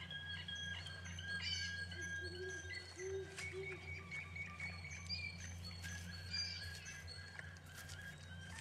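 Birds chirping in short high calls over a steady low hum, with a thin held high tone that steps up in pitch for a couple of seconds midway.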